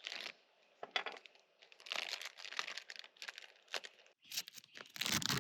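Plastic bag being handled, crinkling and rustling in irregular bursts with a few sharp crackles.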